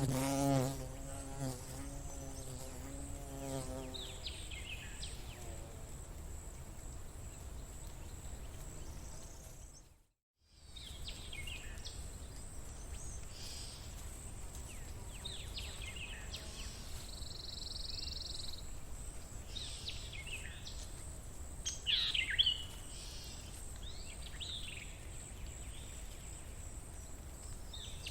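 A flying insect buzzing with a wavering pitch for the first few seconds, then scattered bird chirps in short falling notes, loudest a little past the middle. A steady thin high whine and a low rumble run underneath, and all sound cuts out for a moment about ten seconds in.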